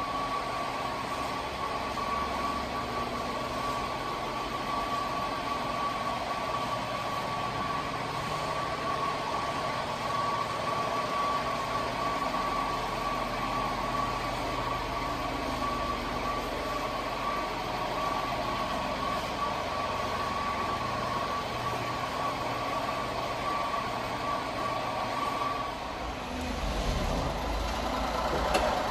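Honda Acty mini truck's small three-cylinder engine idling steadily, with a thin constant high whine over it; near the end the whine stops and the low engine sound grows louder.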